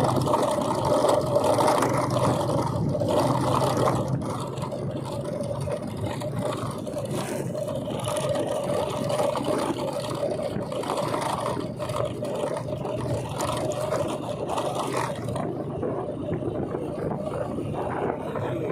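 Motorcycle engine running steadily under way, with road noise. A held tone sits over a steady rush, dropping a little in level about four seconds in.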